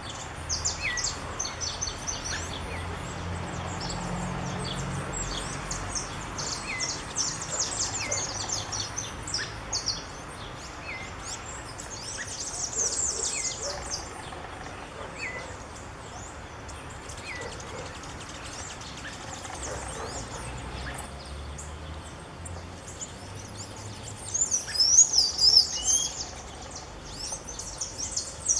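Creamy-bellied thrush calling: a short, rising note repeated every couple of seconds. A denser, high-pitched twittering of birdsong runs over it and is loudest about 24 to 26 seconds in.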